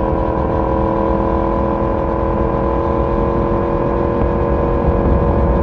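Yamaha YZF-R1 inline-four engine and exhaust running steadily at cruising speed, its pitch holding nearly level, over a low wind and road rumble.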